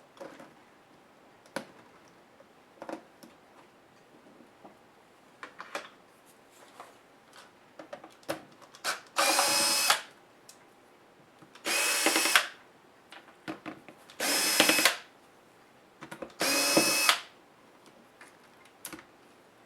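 Small electric screwdriver running in four short bursts of under a second each, backing out laptop screws, with small clicks and taps of parts and screws being handled between them.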